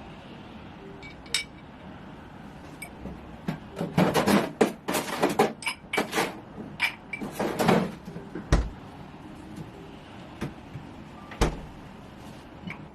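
Household handling sounds: a flurry of clatter and rustling in the middle, then two dull thumps a few seconds apart, like a cupboard or door being shut.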